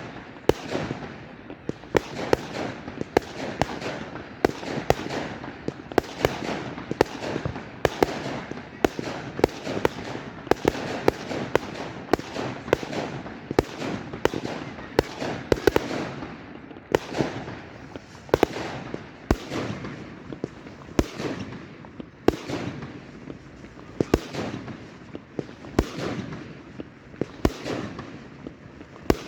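Fireworks going off in a steady barrage: sharp bangs one or two a second over a continuous noisy background.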